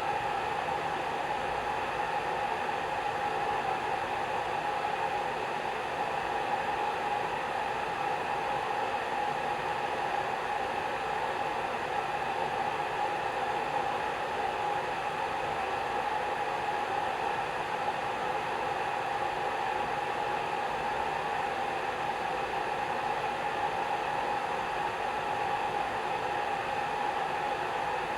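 Hair dryer running steadily: a constant whoosh of blown air with a steady hum in it, unchanging throughout.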